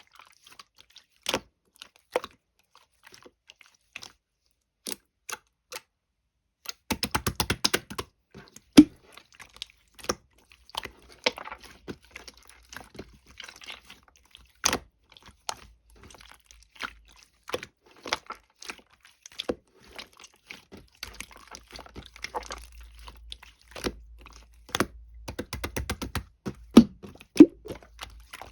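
Purple clear slime being handled, giving scattered sharp clicks and pops as air pockets burst. Quick runs of crackling come about a quarter of the way in and again near the end.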